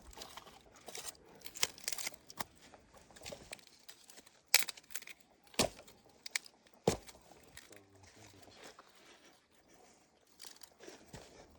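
Irregular crunching and crinkling handling noises, with a few sharp clicks or knocks about halfway through.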